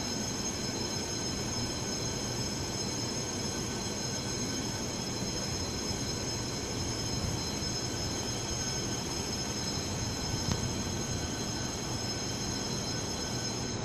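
Electric train running at a station: a steady rumble and hiss with several steady high-pitched electrical whines.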